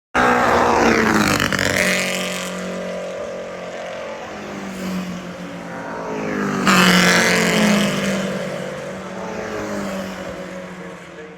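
Vintage racing sports cars' engines going past at speed, two loud passes, one at the start and another about seven seconds in, each falling in pitch and fading away.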